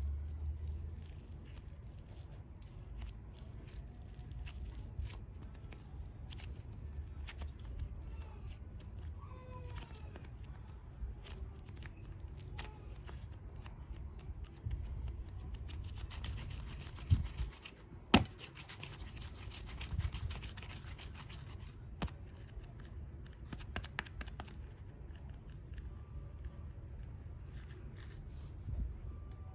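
Hands opening and handling super clay packaging: small crinkles, tearing and scattered clicks, with two sharper clicks about a second apart past the middle.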